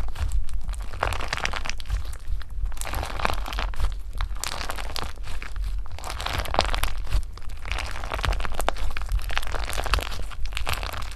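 Hands squishing and pressing crunchy slime, making dense crackling and crunching with many small pops that come in repeated swells.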